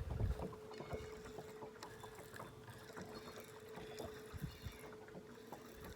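A faint steady hum, with many light clicks and small knocks from gear in a fishing boat while a hooked bass is being brought in.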